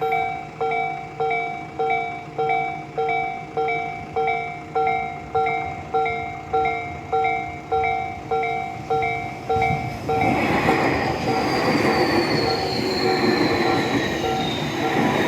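Japanese level-crossing warning bell ringing steadily, about 1.7 strikes a second. About ten seconds in, a Tobu 60000 series electric train passes over the crossing, its wheels rumbling and its motors giving a high whine that falls slowly in pitch, with the bell still ringing underneath.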